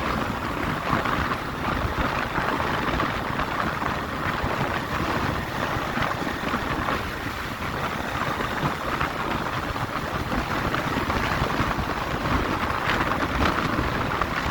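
Wind rushing over the microphone of a rider on a moving motorcycle, a steady rough noise with road and motor noise underneath.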